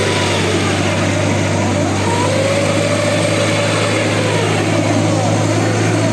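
A vehicle engine idles steadily and loudly, with no revving.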